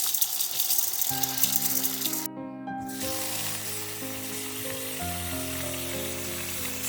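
Food sizzling in a frying pan: a steady hiss that cuts out for about half a second a little past the two-second mark, then returns. Background music with sustained notes plays from about a second in.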